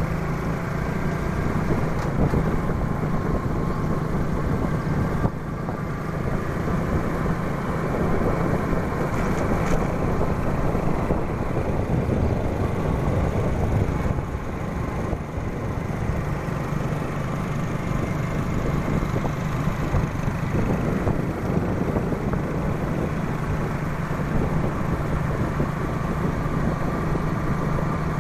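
Motorbike engine running steadily on the move, a constant low hum under a dense rushing noise.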